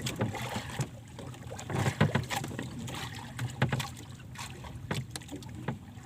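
Water slapping and knocking against the hull of a small boat in a strong current, with irregular short knocks and splashes over a low rumble.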